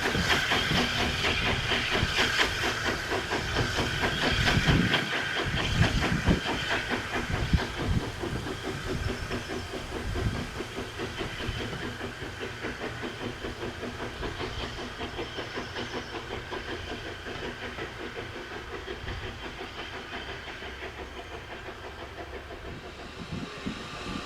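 Steam locomotive working a train: a rapid, regular run of exhaust beats over a steady hiss of steam, loudest in the first eight seconds and then fading.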